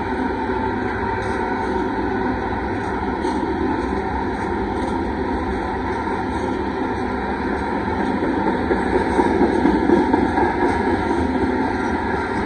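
Freight train tank cars rolling past: a steady rumble of steel wheels on the rails, swelling a little about two-thirds of the way through.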